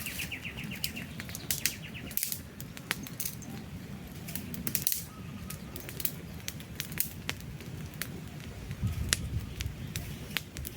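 Wood campfire crackling, with frequent sharp pops and snaps over a low rumble of burning. A bird gives a rapid trill for the first couple of seconds.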